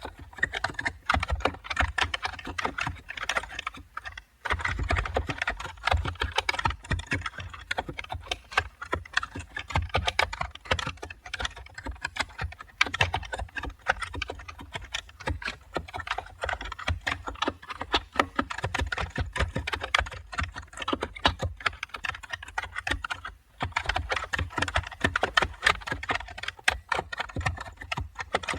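Computer keyboard typing: a fast, uneven stream of key clicks that runs on without let-up, pausing briefly twice, about four seconds in and again near the end.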